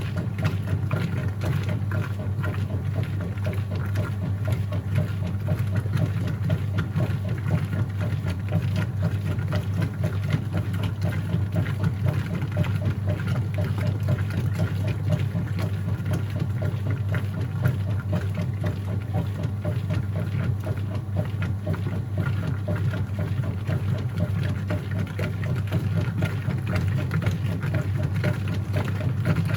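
Whirlpool top-load washing machine running mid-cycle: a steady motor hum with a fast, even churning of water and clothes over it.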